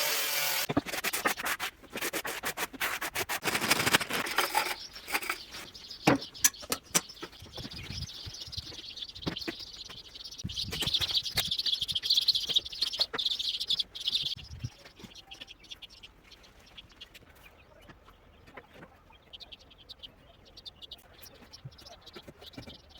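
Scraping and rubbing with sharp clicks and taps, typical of hand tile-setting work, loudest in the first few seconds. A high chirping or squeaking sound comes in around the middle, and it fades to faint scratching for the last third.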